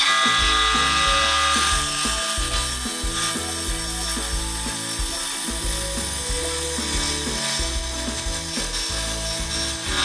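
Bandsaw running and cutting through a block of wood, a steady hiss, mixed with background music.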